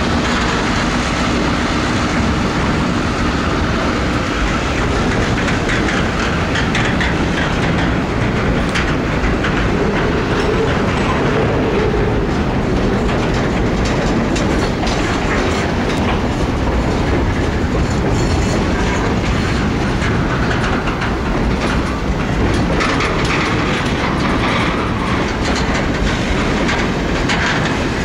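Container wagons of a freight train rolling past at close range, a steady rumble with wheels clicking over the rail joints.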